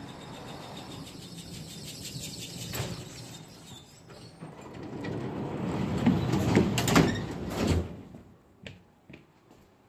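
KTM-5M3 tram's passenger doors working at a stop: after a steady low hum and a single click, a rattling clatter builds and peaks with several sharp clacks about six to eight seconds in, then stops.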